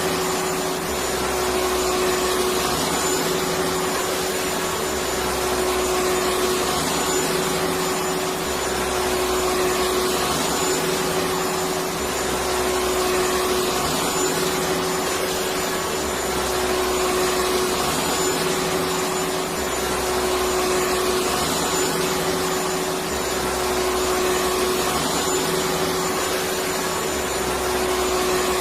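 Electric vacuum cleaner running steadily: a continuous motor whir and airflow hiss with a steady hum tone, and a faint low swell repeating about every three and a half seconds.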